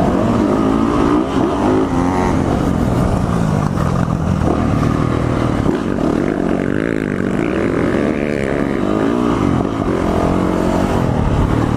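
Yamaha four-stroke motocross bike's engine revving hard up into its top end and back down, over and over, as it is ridden around the track.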